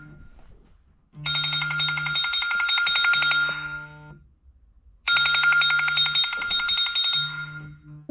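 Telephone-bell ringing, like a classic phone ringtone or alarm: two rings of about three seconds each, with a short pause between.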